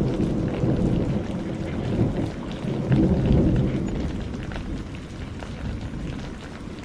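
A roll of thunder over steady rain: a low rumble swells, peaks about three seconds in and slowly fades, while rain patters with scattered drops.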